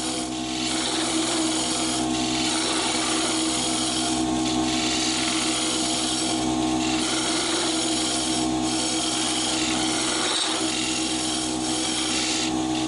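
Wood lathe running with a steady motor hum while a hollowing tool scrapes and cuts inside an olive wood hollow form, the cutting noise swelling and easing every second or two.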